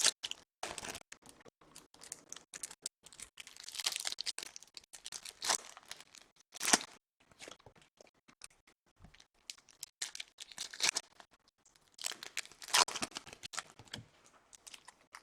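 Trading-card pack wrappers being torn open and crinkled by hand, in irregular crackly bursts with short pauses between them.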